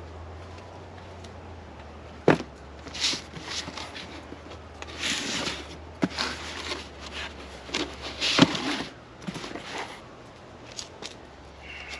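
Handling sounds: a few sharp knocks and clicks with bursts of rustling between them, over a low steady hum that stops about two-thirds of the way through.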